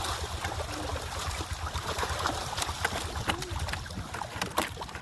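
Pond water splashing and sloshing, with a few sharp slaps, as netted fish thrash and try to jump.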